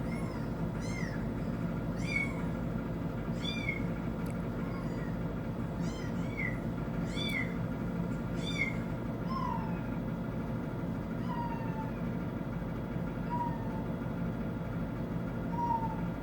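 Kitten meowing from a TV: short, high, arching meows about once a second for the first half, then fainter, falling meows every two seconds or so. A steady low hum runs underneath.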